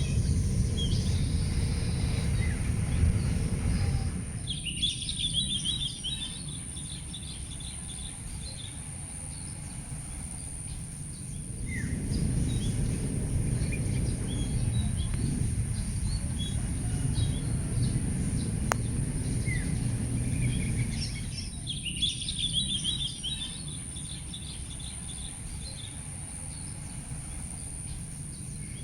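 Outdoor ambience: small birds chirping in short bursts, twice in clusters and otherwise scattered. Under them is a low rumble that swells and fades, and a steady high thin whine.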